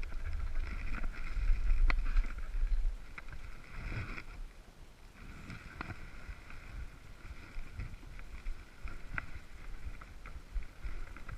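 Low rumble of wind buffeting the microphone outdoors, loudest in the first three seconds, with a few scattered sharp clicks.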